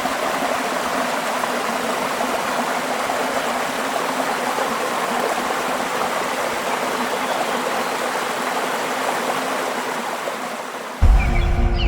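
Steady rush of falling and flowing water at a waterfall, easing slightly near the end. About a second before the end, music with a deep bass cuts in suddenly.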